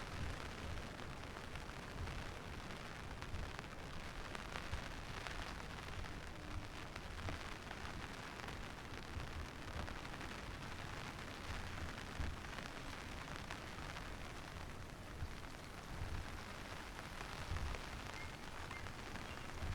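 Steady rain falling, with uneven low rumbles underneath.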